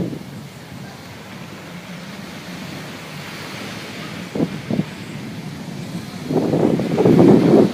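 Wind buffeting the microphone over a steady rush of sea and wind aboard a sailboat, with two short gusts around the middle and a longer, louder gust near the end.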